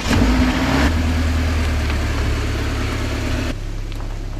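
Subaru Outback's boxer engine running, louder for about the first second and then settling into a steady idle.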